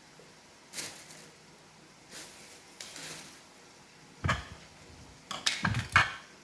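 Hard plastic parts of an iRobot Roomba robot vacuum being handled and fitted together during reassembly: a few soft scrapes, then a cluster of sharp clicks and knocks in the last two seconds.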